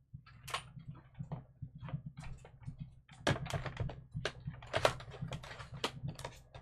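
Irregular clicks and knocks, a few a second, from a manual die-cutting machine being handled and set out, with the loudest knocks about three and five seconds in.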